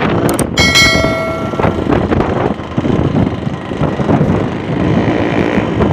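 Yamaha RX-King two-stroke single-cylinder motorcycle engine running under way, its exhaust pulsing, with wind on the microphone. A vehicle horn sounds briefly, one steady note about a second in.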